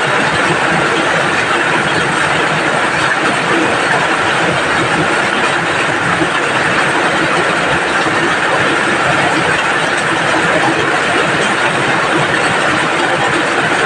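Steady rain falling: a dense, even hiss of drops that holds constant without a break.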